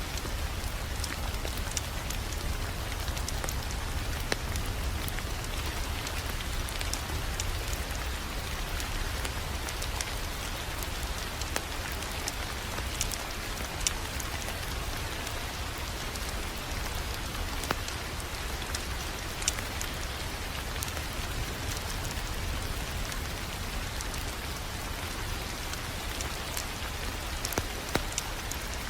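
Crackling wood fire: a steady hiss with a low rumble underneath and scattered sharp crackles and pops throughout.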